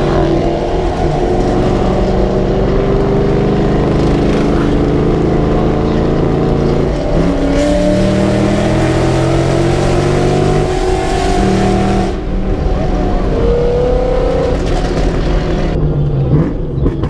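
Car engine running under light load, its pitch slowly climbing for about twelve seconds, then easing off and picking up again briefly.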